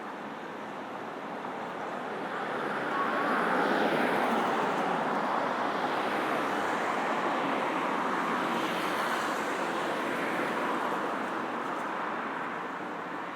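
Road traffic passing on a busy city street: a steady rush of vehicles and tyres that swells about three seconds in and eases off near the end.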